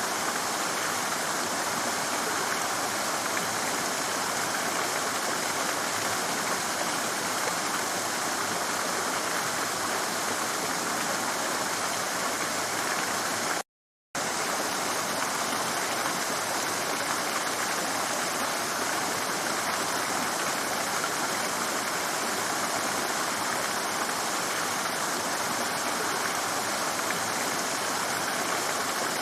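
Stream rushing and splashing over rocks: a steady, even rush of water, broken by a short gap of silence about fourteen seconds in.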